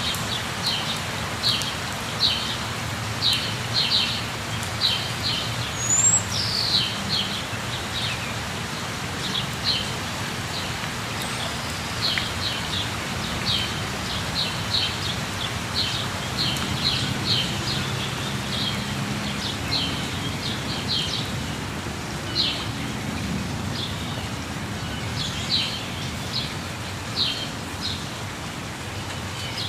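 Steady rush of a waterfall with birds calling over it: short, high chirps, often in pairs, repeated every second or so, and one rising whistled note about six seconds in.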